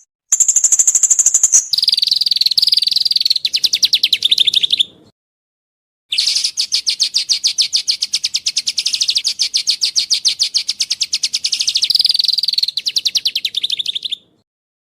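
Songbird singing fast trills of rapidly repeated notes: a short high phrase, a lower phrase of about three seconds, then after a second's silence a long run of about eight seconds, each cutting off abruptly.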